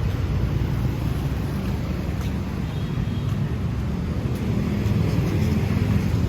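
Street traffic noise: a steady low rumble of passing motor vehicles that grows a little louder about five seconds in, with wind on the microphone.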